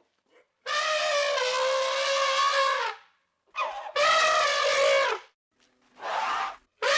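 A series of loud, long, pitched animal calls, the first lasting over two seconds, then a second long call and a short one near the end.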